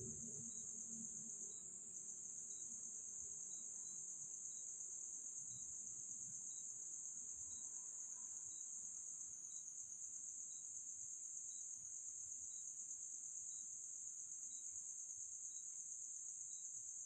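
Crickets chirring in a steady, high-pitched, unbroken drone, with a faint tick about once a second.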